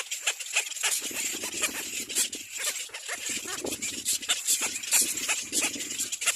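Little black cormorant nestlings begging at the nest: a dense, continuous run of rasping, clicking calls, with a low rumble joining about a second in.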